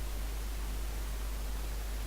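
Steady hiss with a low hum underneath: background noise of the recording microphone, with nothing else sounding.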